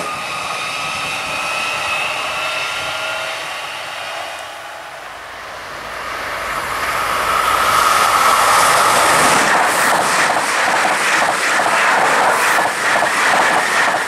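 Regional passenger trains passing on the main line: an AGC unit running up, then a Régiolis multiple unit coming on and passing close by with a rising whine. Its wheels beat out a rhythmic clatter as the bogies go by.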